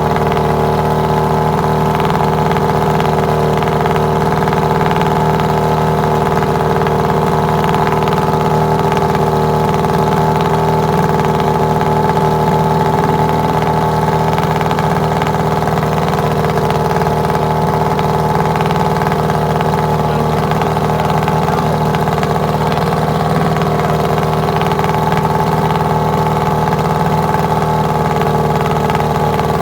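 Old outboard motor idling steadily, run out of the water with a garden hose supplying its cooling water.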